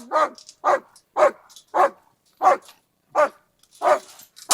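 Dog barking repeatedly, about two short barks a second.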